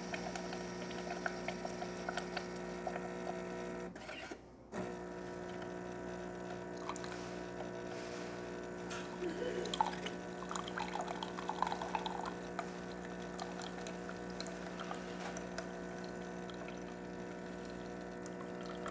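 Jura XJ9 espresso machine's pump running with a steady hum as it brews coffee, with liquid pouring. The pump stops for about half a second around four seconds in, then starts again.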